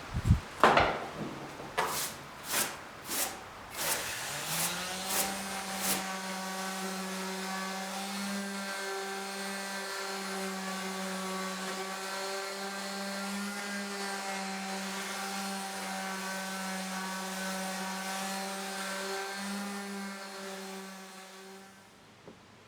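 A run of short scraping strokes, about two a second, gives way a few seconds in to an electric power tool motor that spins up and runs at a steady pitch, then winds down near the end.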